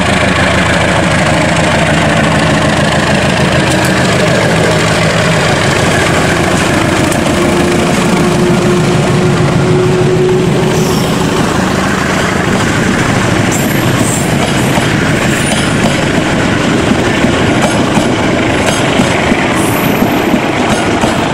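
Diesel locomotive pulling away under power, its engine running loud and deep as it passes close by, with a steady whine for a few seconds near the middle. The passenger coaches then roll past with a rushing rumble and the clicking of wheels over the rail joints.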